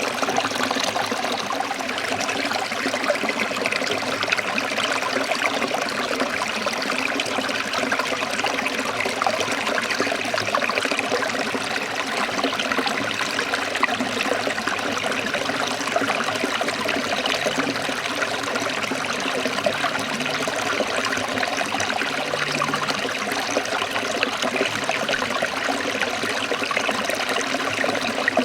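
Forest stream of water trickling and splashing over rocks in a steady, unbroken rush.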